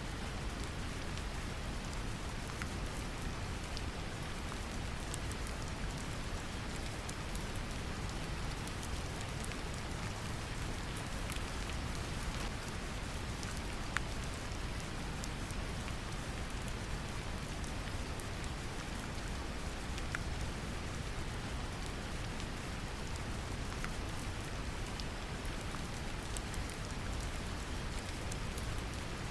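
Steady brown noise, a deep rumbling hiss, mixed with gentle rain pattering on a surface, with scattered drop ticks.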